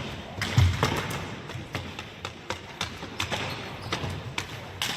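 Ball hockey play: irregular sharp clacks of sticks striking the ball and each other, with low thuds of the ball against the boards or floor, the heaviest thud about half a second in.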